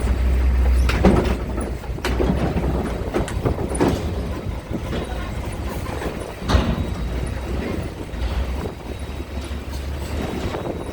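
Wind buffeting the microphone in gusts, with irregular metallic clanks and knocks at uneven intervals.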